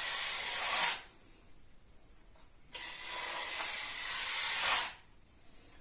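Plastering spatula drawn across a plasterboard joint, spreading and smoothing wet filler in two long scraping strokes, the first ending about a second in and the second running from near the middle to almost the end.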